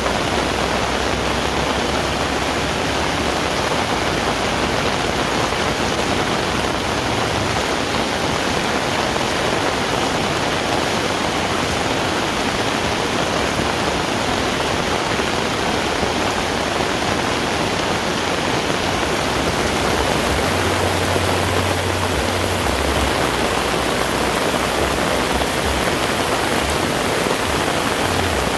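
Heavy rain falling in a steady, dense hiss, getting a little brighter and sharper about two-thirds of the way through.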